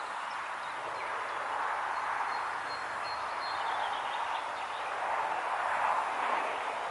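Wind rushing through foliage, an even sound that swells and eases in gusts, loudest a little before the end.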